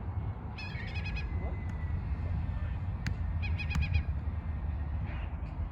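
Wind buffeting the microphone with a steady low rumble, over which a bird gives two quick runs of short repeated chattering notes, about half a second in and again a little after three seconds. A single sharp tap comes just before the second run.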